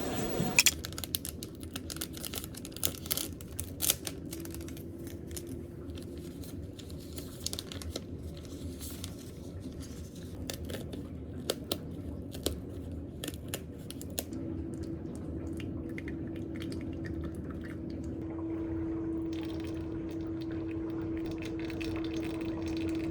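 Paper rustling with scattered small clicks and taps from desk work. A steady faint hum comes in about two-thirds of the way through.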